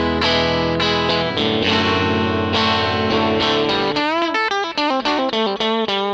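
Electric guitar with single-coil pickups played through an original 1957 Fender Vibrolux tweed tube amp and its 10-inch Jensen speaker. Ringing chords come first; about four seconds in the notes bend up and down in pitch, followed by quickly picked single notes.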